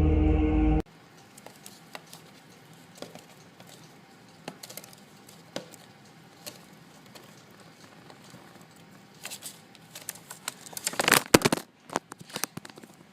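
Loud music that cuts off abruptly under a second in, then scattered light clicks and crinkling. A louder flurry of crackles comes near the end.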